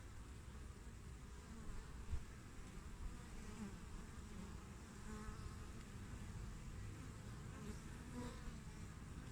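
Western honeybees buzzing at the hive entrance: a faint, steady hum of many bees, with single bees droning briefly past now and then. A single short tap about two seconds in.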